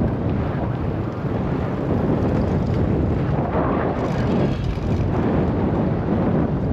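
Wind buffeting the microphone of a GoPro on a moving bicycle, a steady low rumble.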